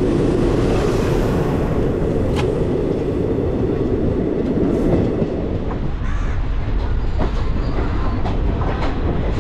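Train running on rails: a loud, dense rumble that thins out about halfway through, leaving the wheels clicking over rail joints.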